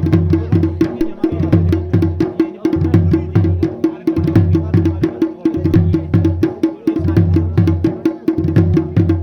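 Traditional Garhwali dhol and damau drumming. It plays a fast, steady beat of sharp strikes over a low drum pattern that repeats about once a second.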